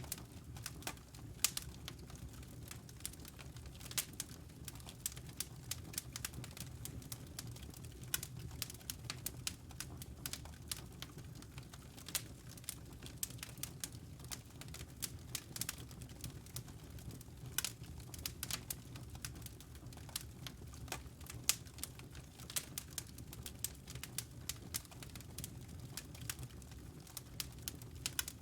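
Wood fire crackling: irregular sharp pops and snaps, a few louder than the rest, over a steady low rumble of the burning fire.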